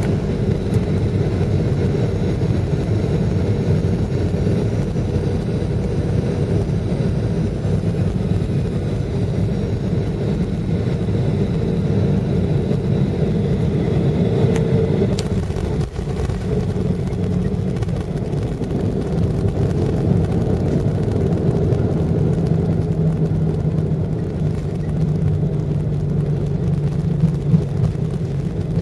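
Steady jet engine noise and rumble inside an airliner's cabin as the plane runs on the ground after landing. A thin whining engine tone fades out about halfway through, and a lower hum comes up near the end.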